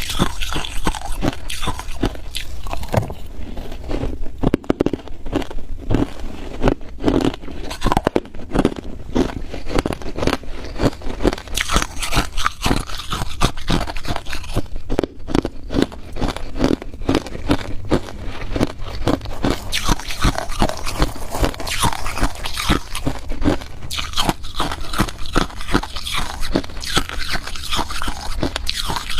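A person biting and chewing ice: a continuous run of sharp, rapid crunches.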